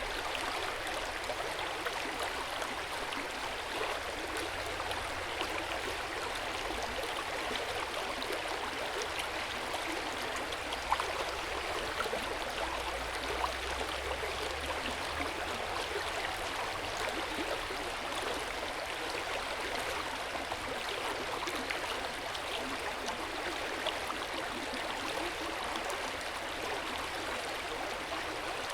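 Hot-spring water flowing and splashing steadily into an open-air bath, a continuous gentle burble with small splashes and one slightly louder splash about eleven seconds in.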